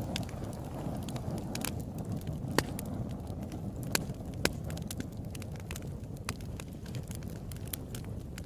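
Campfire burning with a steady low rumble and frequent sharp crackles and pops from the burning wood, a few louder pops standing out.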